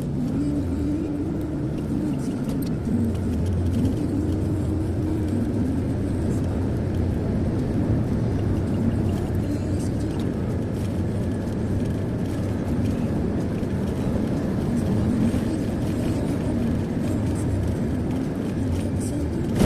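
Steady engine and tyre noise of a car cruising on a highway, heard from inside the cabin, with one short knock near the end.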